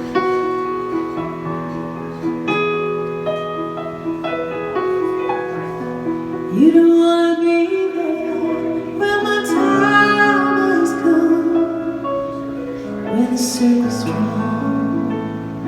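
Live band playing the opening of a slow ballad, with held chords and notes that sound like piano or keyboard. About six and a half seconds in, a woman's voice comes in, singing without clear words over the instruments.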